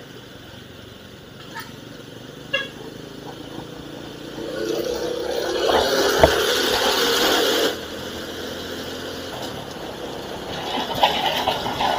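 Road and engine noise of a vehicle on a highway at night, picked up by an action camera's internal microphone. It grows louder and steadier about halfway through, with a sharp click within it, then drops suddenly and carries on at a lower level.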